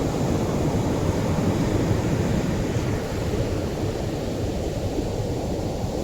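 Atlantic surf breaking and washing up the shore as a steady low rush of noise, easing a little about halfway through.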